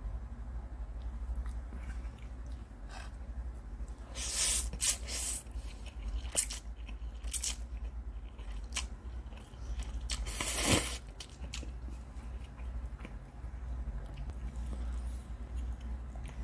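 Close-miked chewing of fried instant noodles, with a few short louder mouth sounds about four to five seconds in and again near eleven seconds, over a low steady hum.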